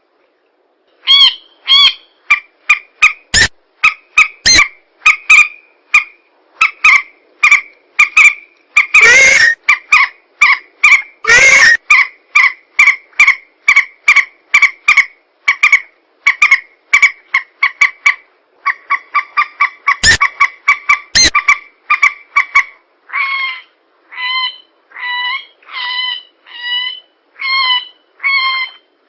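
Recorded bird lure calls of swamp rails (mandar and pelan), played loud: a rapid run of short, honking call notes, several a second, with a few harsher sharp notes, settling near the end into a slower, even series of about one and a half notes a second.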